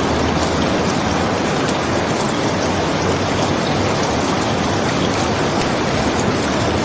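Steady rain: an even, unchanging hiss with faint scattered ticks.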